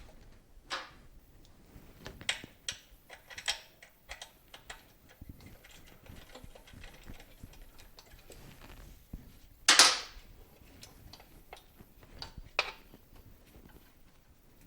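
Scattered light metallic clicks and clinks of tools and parts being handled during motorcycle disassembly, with one louder sharp clatter near ten seconds in.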